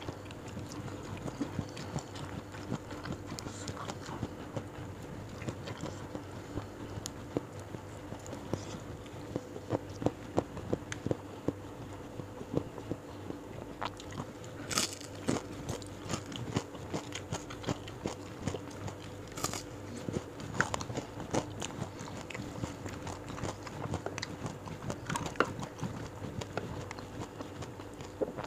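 Close-miked chewing and biting of crunchy food, raw leafy greens and fried salted fish with rice, as many small crisp crunches, with a few sharper crunches about halfway and later on.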